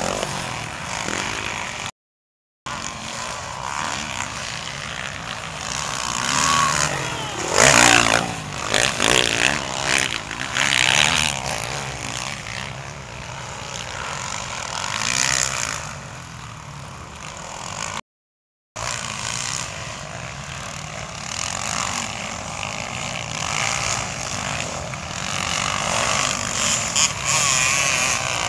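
Motocross bikes racing past, engines revving up and down with the louder passes a third of the way in. The sound cuts out completely twice, briefly.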